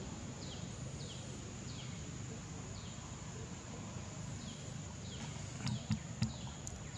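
Birds calling in a forest, one repeating a short falling chirp every half second or so, over a steady high-pitched hum. Three sharp knocks come close together near the end.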